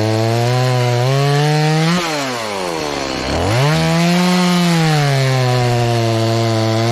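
Stihl MS180 two-stroke chainsaw (31.8 cc) running at high throttle while cutting wood, its pitch sagging under load. About two seconds in the note climbs and falls away nearly to idle, then it is throttled back up and bogs into the cut again.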